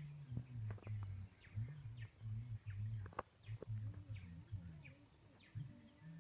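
Birds chirping in a run of short falling calls, a few every second, over a louder low, uneven hum that breaks off and comes back. A single sharp click about three seconds in.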